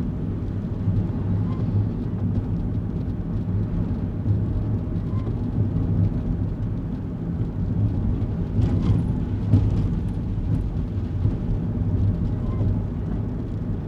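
Steady low engine and road rumble inside a kei car's cabin while driving on wet roads, with a few light clicks from inside the car about nine seconds in.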